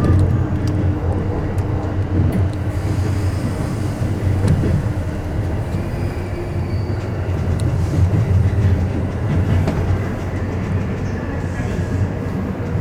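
Electric commuter train running on rails with a steady low rumble, scattered wheel clicks over the track, as it slows into its terminal station.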